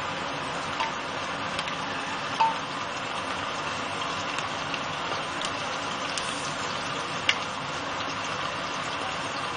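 Sliced onions sizzling in hot mustard oil: a steady frying hiss with a few sharp pops of spattering oil, the clearest about two and seven seconds in.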